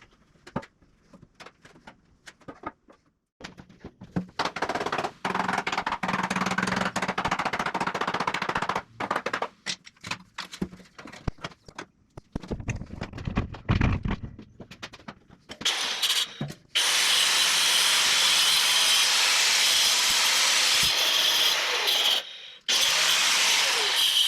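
Power tool working 2x4 lumber: a stretch of stop-and-go running in the first third, then a long steady run of about five seconds near the end, broken once and starting again.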